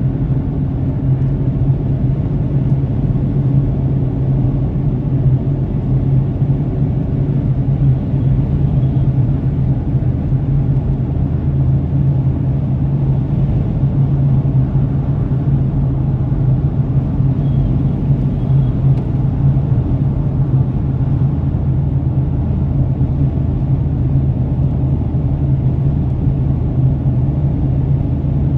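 Steady low rumble of a car driving, picked up by a dashcam inside the cabin: engine and road noise with an even hum and no change in pace.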